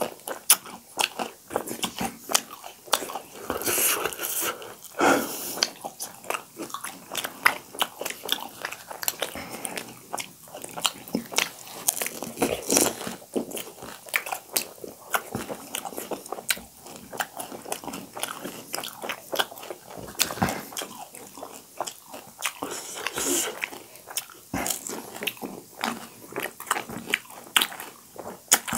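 Close-miked eating: crisp pani puri shells crunching and steamed momos being chewed, a dense, irregular run of sharp clicks and crackles.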